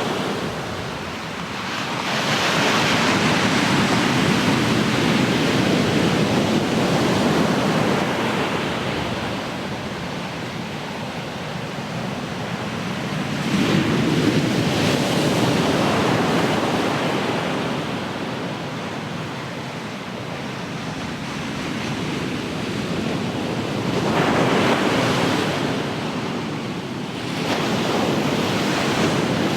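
Ocean surf: waves breaking and washing ashore, swelling in surges roughly every ten seconds over a constant rushing wash.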